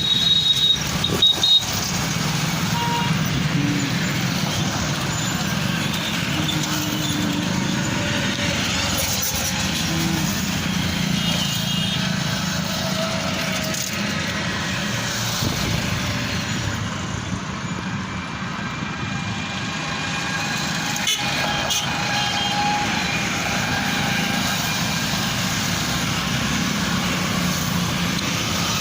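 Road traffic running steadily, with short tones here and there that fit vehicle horns.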